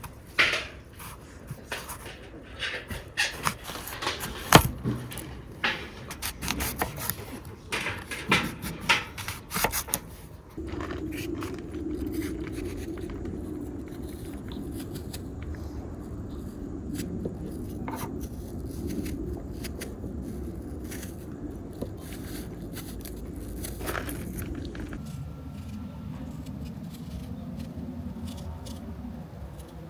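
Sharp clicks and scrapes of objects being handled for about ten seconds. Then a steady rasping scrape sets in and runs on, changing character near the end.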